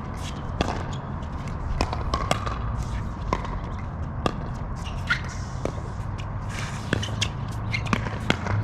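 Irregular sharp knocks and taps, a dozen or more, over a steady low rumble.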